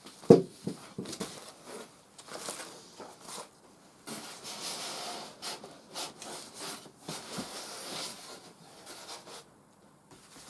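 Packaging and parts being handled: rubbing and scraping with scattered clicks, and a sharp knock about a third of a second in.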